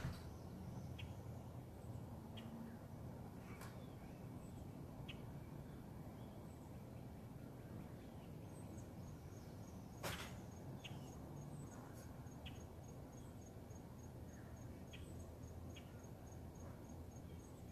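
Faint outdoor dawn ambience with a low rumble underneath. Short bird-like chirps come every second or two, and one sharp click about ten seconds in is the loudest sound. From about halfway, a high, even insect-like ticking repeats roughly three times a second.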